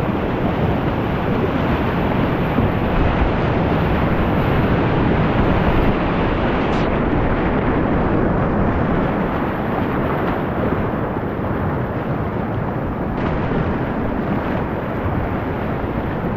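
Whitewater of a river rapid rushing loudly and steadily, heard close to the water.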